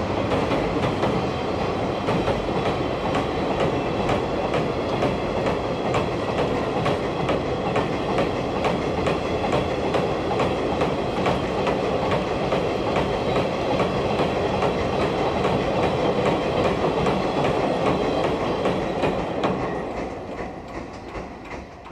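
Freight train wagons rolling past at close range: a steady rumble with the wheels clattering over rail joints, fading away near the end as the last wagon passes.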